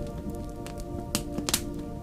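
Slow ambient music of held, steady tones, with a wood fire crackling through it: scattered sharp pops, the loudest two a little after one second and about half a second later.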